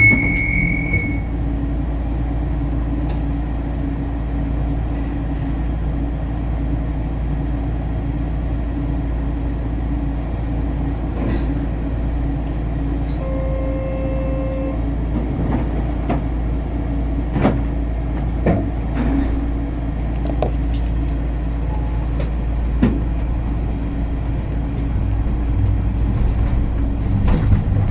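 Skyrail people-mover car running, a steady low rumble with scattered knocks and clicks. A short high beep sounds at the very start, and a brief steady tone about halfway through.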